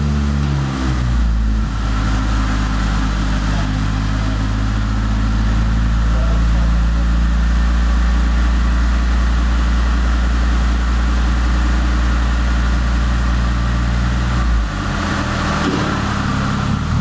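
2007 Honda Civic Si four-cylinder engine with a Skunk2 MegaPower R cat-back exhaust, running on a chassis dyno. Its note drops in the first second and then holds at a steady speed, with a brief change in the note about fifteen seconds in.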